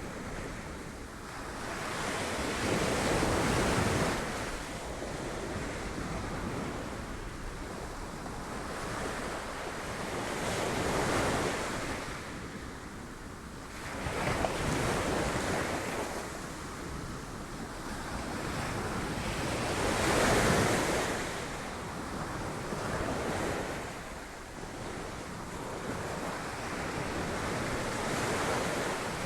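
Sea waves breaking against rocks: a continuous wash of surf that swells into a louder crash every few seconds, about five times, and falls back between them.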